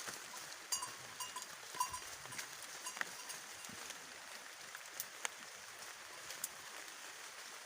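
Small bells on feeding goats clinking irregularly, short ringing tinkles now and then, with scattered sharp snaps over a steady hiss.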